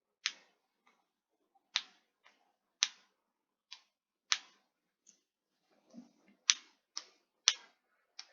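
About a dozen short, sharp clicks at uneven intervals, separated by quiet.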